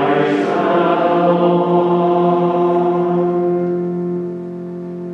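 Sacred music: a hymn sung with sustained held chords in the accompaniment. The voices fall away about four seconds in, leaving a softer held chord.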